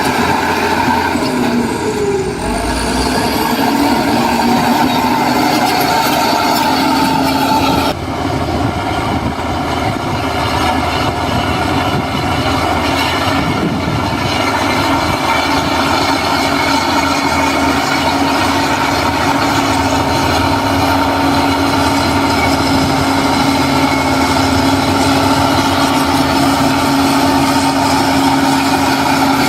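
Heavy construction machine's diesel engine running steadily, with a brief dip and change in tone about eight seconds in.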